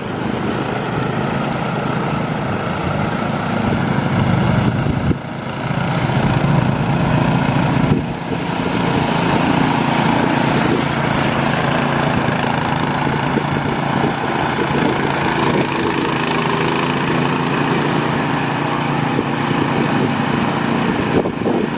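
Snowblower's small gasoline engine running steadily, with brief dips in level about five and eight seconds in.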